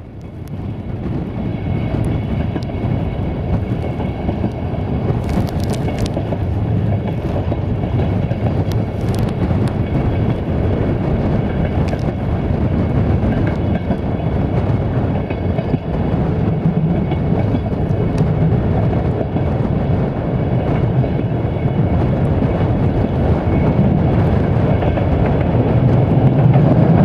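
Passenger train running at speed, heard from an open carriage window: a steady rumble of wheels on the rails with a rush of air, fading in at the start and growing slowly louder, with a few sharp clicks about five and nine seconds in.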